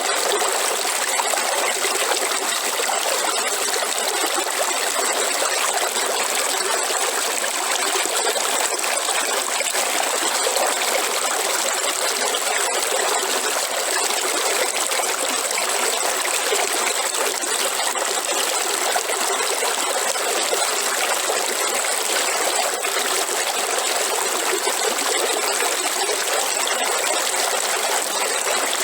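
Waterfall: water falling and running in a steady, unbroken rush with little bass.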